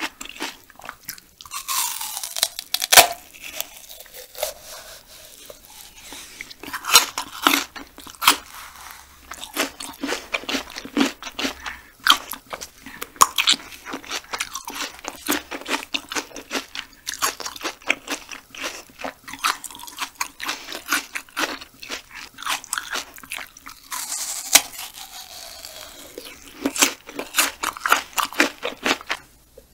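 Close-up chewing and biting of raw banana stem pith: many sharp crunches in quick succession, coming in runs with short lulls between them.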